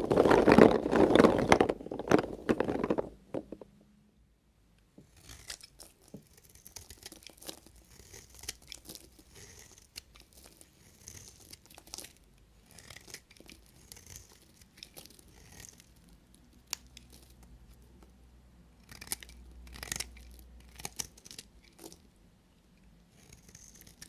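Knife cutting through bars of soap. There is a loud crackling crunch for the first three seconds, then after a short pause a long run of softer, quick cuts and scrapes.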